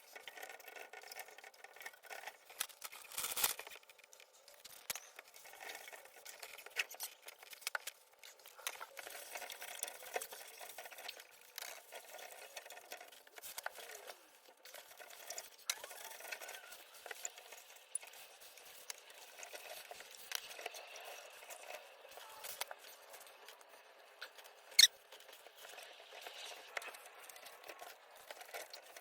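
Faint scratching, rubbing and small clicks of hands cleaning dust out of a vintage box fan and handling its metal parts, with one sharp click near the end.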